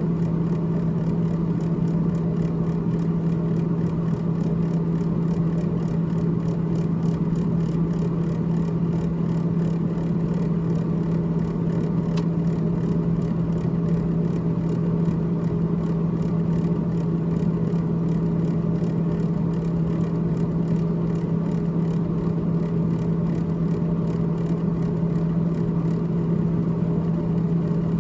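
Freezer fan of a GE GTH18XCTZRBB refrigerator running with a steady, even hum that does not change.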